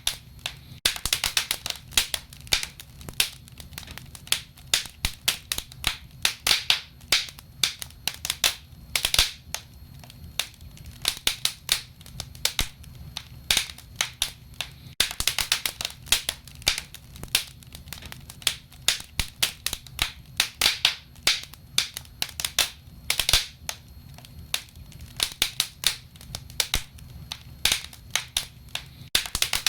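Wood fire crackling and popping: many sharp snaps of burning wood at irregular intervals, some in quick clusters, over a low steady rumble of the flames.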